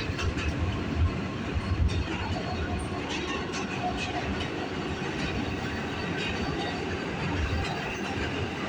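An R211A subway car running between stations, heard from inside the car: a steady rumble of wheels on rail, with sharp clicks over the rail joints in the first few seconds.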